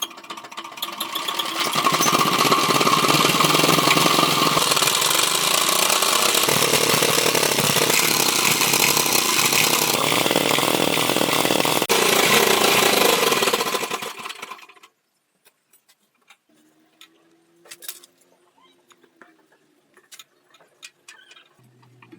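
A power tool runs loudly and steadily for about fourteen seconds, then stops. A few faint clicks and taps follow.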